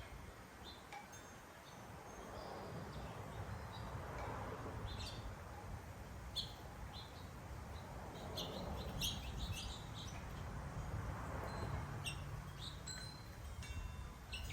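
Small backyard birds chirping in many short, high calls, scattered irregularly, over a steady low background rumble.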